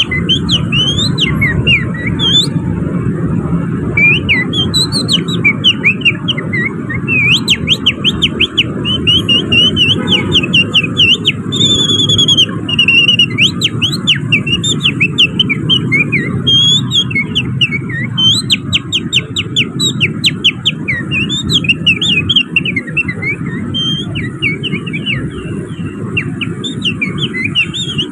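Finger-whistled imitation of an oriental magpie-robin (kacer) song mixed with canary-like phrases: a long, nearly unbroken run of quick chirps, trills and slurred whistled notes. A steady low rumble of background noise runs underneath.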